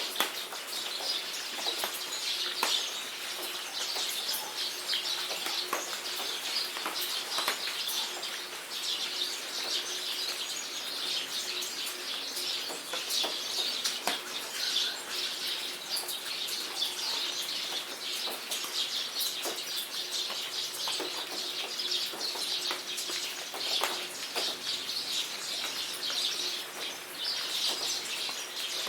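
Steady rain falling with many small drop ticks, under a dense, continuous chorus of high birds chirping and calling.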